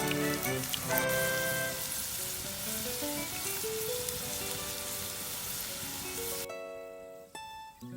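Burdock strips in batter (gobo-ten) deep-frying in hot oil: a dense sizzle with crackling pops that cuts off suddenly about six and a half seconds in. Plucked guitar background music plays throughout.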